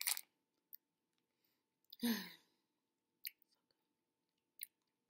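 Faint mouth sounds of a person chewing candy: a few soft scattered clicks, with a short hummed sound about two seconds in.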